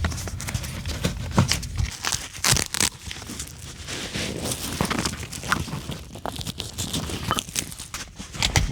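Neoprene seat cover being stretched and worked over a truck seat: irregular rustling, crinkling and tearing-like rips, with scattered sharp clicks.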